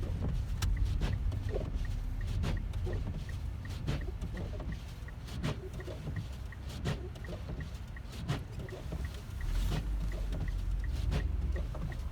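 Car cabin noise while driving on a snow-covered road: a steady low road and engine rumble with irregular knocks and clicks, and a faint, fast, even ticking.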